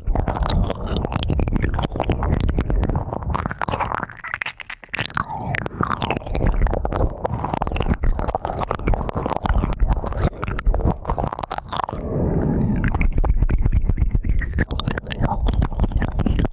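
Close-miked ear-cleaning ASMR sounds: an ear pick scratching and rubbing at a microphone's ear, a dense crackly scraping with many small clicks that eases off briefly about four seconds in.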